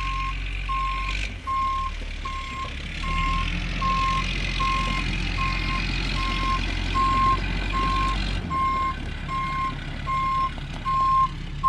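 Dump truck's reversing alarm beeping steadily, about one and a half times a second, as it backs up, over the low steady running of its engine.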